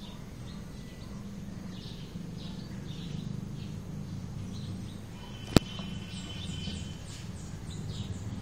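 Small birds chirping in short, repeated calls over a steady low hum, with one sharp click about five and a half seconds in, the loudest sound.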